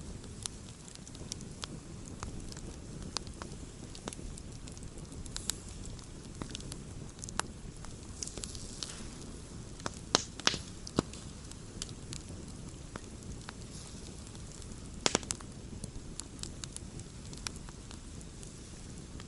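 Wood campfire burning: a steady low rumble of flame with scattered sharp pops and snaps from the burning wood, loudest in a quick cluster about ten seconds in and again about fifteen seconds in.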